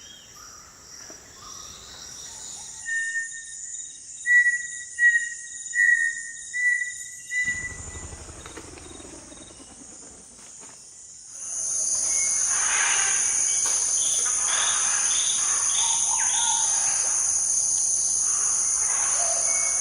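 Chorus of insects, crickets among them, trilling steadily at a high pitch. A bird gives a run of about six short whistled notes in the first half. About halfway through, the insect chorus steps up sharply in loudness and other bird calls sound under it.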